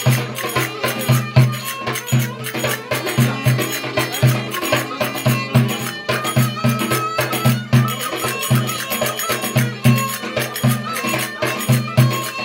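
Traditional folk dance music with a fast, steady low drumbeat, about three to four beats a second, under a sustained high melody.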